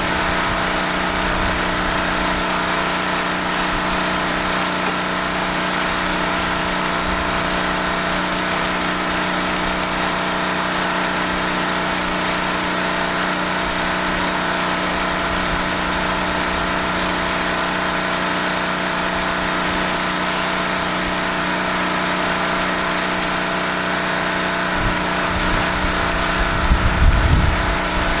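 Gas-engine pressure washer running steadily at a constant pitch, with a broad hiss over the engine note, as the house front is rinsed. Some low rumbling bumps come in near the end.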